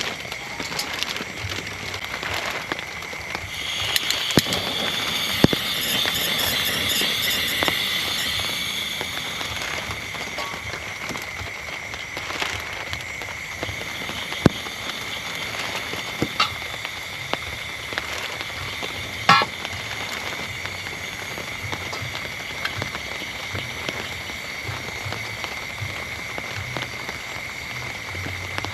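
Steady rain falling, with scattered sharp ticks and crackles, and a louder hissing stretch about four to nine seconds in.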